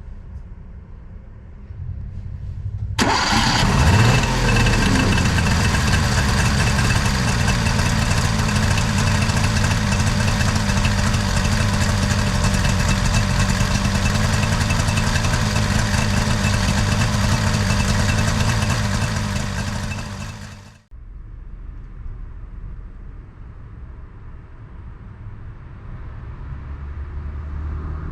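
Suzuki Fronte Coupe's fuel-injected 360cc three-cylinder two-stroke engine catching about three seconds in, with a brief rise in pitch just after. It then runs steadily until it stops abruptly about twenty-one seconds in. A low rumble comes before and after the running.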